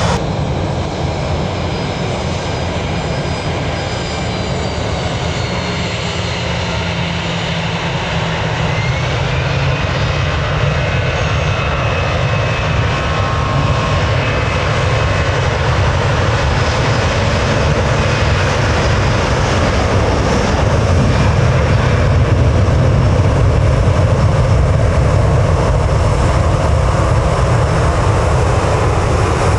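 Jet airliner engines running, a continuous rumble with a faint high turbine whine, growing gradually louder and peaking about three-quarters of the way through.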